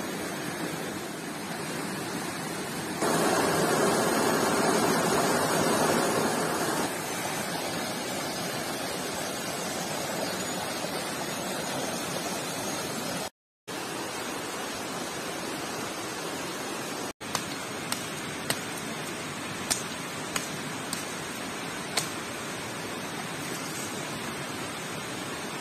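Stream water rushing steadily, louder for a few seconds near the start, with a few sharp clicks in the second half.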